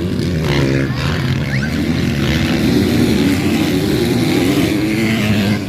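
Motocross motorcycle engines racing on the track, revving hard with the pitch rising and falling as the throttle opens and closes.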